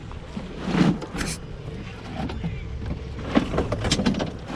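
Junk being handled and shifted while someone rummages through discarded household trash: a few short bursts of clattering and rustling over a low steady rumble.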